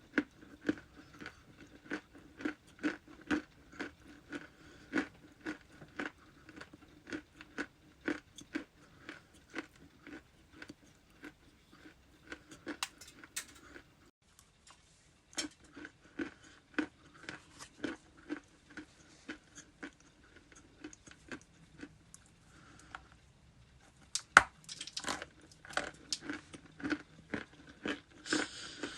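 Close-up crunching and chewing of something hard and brittle in the mouth, a crunch about every half second. There is a short pause about halfway through, then a louder, quicker run of crunches near the end.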